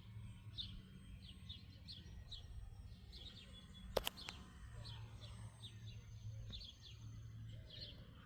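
Bird chirping repeatedly in short high notes, two or three a second, over a faint low hum. There is a sharp click about four seconds in.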